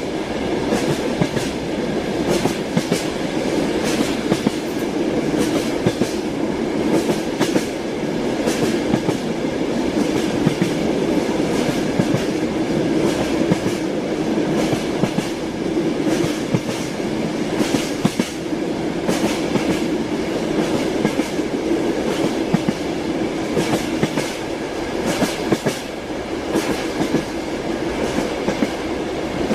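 Train wheels running over rails with a steady rumble and frequent sharp clacks at the rail joints.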